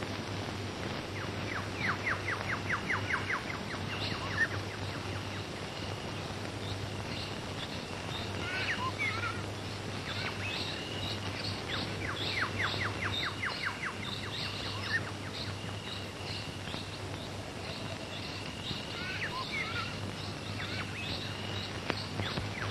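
Birds singing: two runs of rapid trilled notes, a few falling whistles and scattered chirps, over a steady low hum and hiss.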